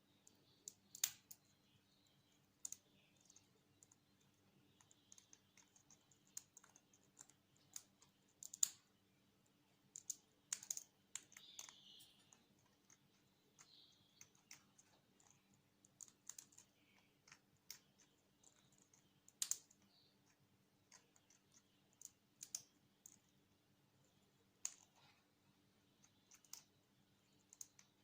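An African grey parrot's beak nibbling and snapping neem leaves and stems, making irregular sharp clicks and small cracks, several in some seconds and few in others.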